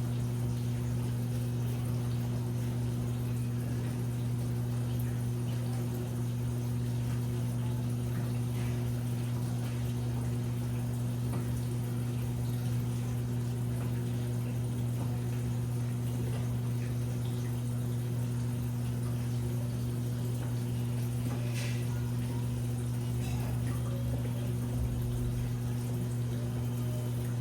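Washing machine running with a steady low hum and water sounds. A couple of faint clicks come about three-quarters of the way through.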